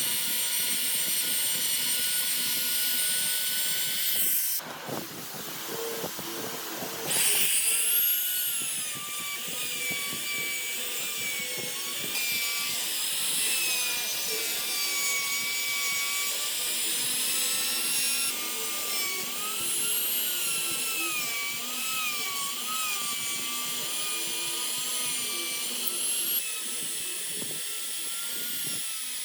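High-speed electric power tool working wood: a high motor whine that dips and recovers in pitch as the tool bites in and eases off, over a rasping cutting noise. The whine breaks off briefly about five seconds in, then comes back louder.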